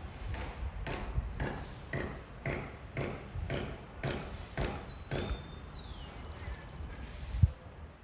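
Wind rumbling on the microphone under a run of short, sharp sounds about two a second. Then two falling whistled bird calls and a quick high trill. A single thump comes near the end.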